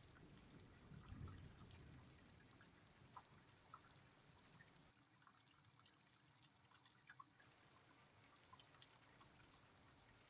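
Faint rain: scattered drips over a light trickle of water, with a soft low rumble about a second in.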